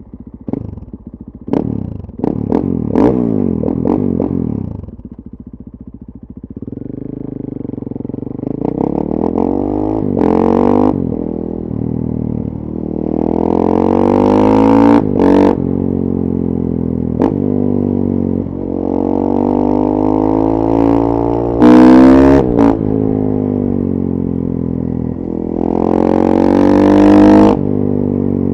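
2014 KTM 450 EXC supermoto's single-cylinder four-stroke engine through a full FMF 4.1 exhaust. There are a few sharp throttle blips, a short idle, then the engine rises in pitch again and again under acceleration, dropping back between rises at the gear changes.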